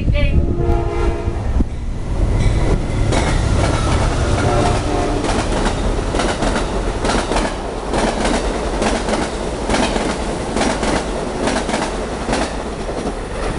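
Passenger train passing at speed. Its horn sounds a chord for about the first second and a half, then the rumble of the cars runs on with a rapid, uneven clatter of wheels over rail joints.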